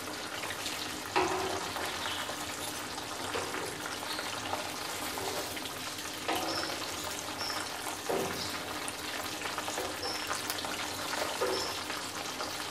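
Chicken wings frying in hot oil in a pan, a steady sizzle. Metal tongs knock against the pan a few times as the pieces are turned, loudest about a second in.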